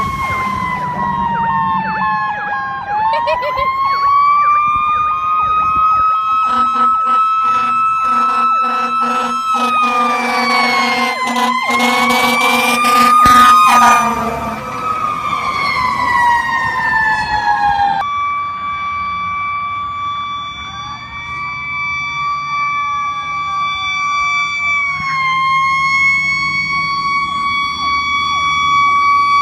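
Fire truck sirens wailing, rising and falling in pitch. In the middle stretch a low horn sounds in a run of short repeated blasts over the siren. After an abrupt change near the middle, a steadier siren holds its pitch with a dip near the end, while a second siren glides faintly behind it.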